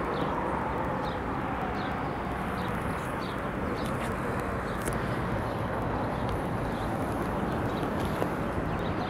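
A small bird chirping one short repeated note about every three-quarters of a second, over a steady background rush; the chirps thin out about halfway through.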